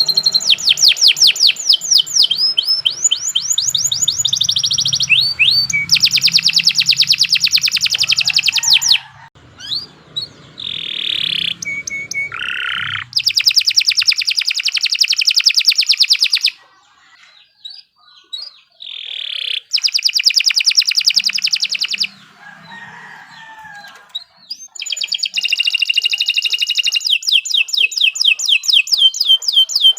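Domestic canary singing: bouts of very fast, rolling trills of high notes, about five bouts broken by short pauses with a few single slurred notes between them.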